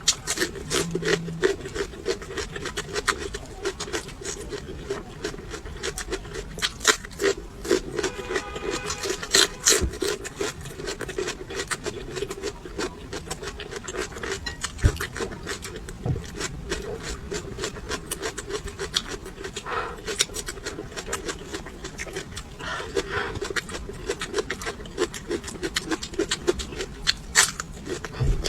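Close-miked chewing of raw chili peppers: a dense, irregular run of crisp crunches and mouth clicks over a low steady hum.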